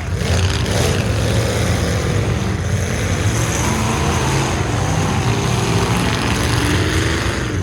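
Full-size trucks' engines running loudly and revving, rising and falling in pitch, with no sharp crash.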